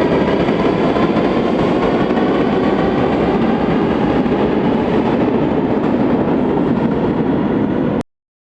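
Rusich 81-740/741 metro train running: a steady loud rumble of wheels and motors with a thin whine of several tones above it, cutting off suddenly near the end.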